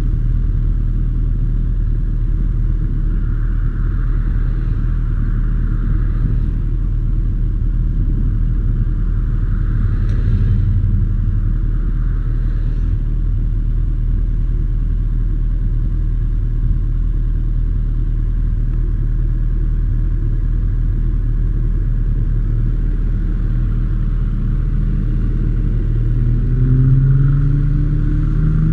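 Motorcycle engine running steadily at low revs, with a short rise in engine pitch near the end.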